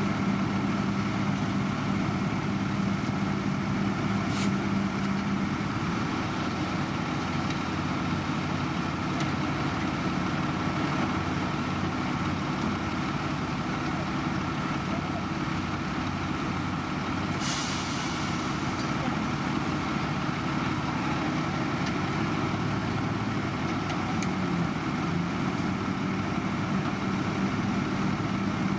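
Heavy diesel road-construction machinery running steadily, with a short burst of hissing air about seventeen seconds in.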